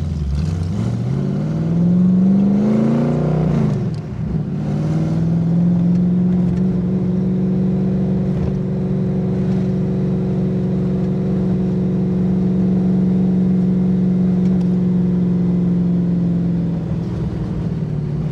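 V8 engine of an AC Cobra replica accelerating, the revs climbing for about three and a half seconds and then dropping at a gear change. After that it runs at steady revs while cruising, easing off slightly near the end. It is heard from the open cockpit.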